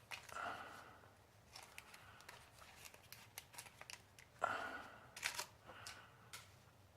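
Scattered light clicks and two louder scrapes, one at the very start and one about four and a half seconds in; no engine is running.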